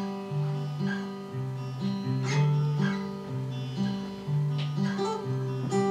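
Acoustic guitar playing the song's picked riff: single plucked notes over a bass line that changes about every half second.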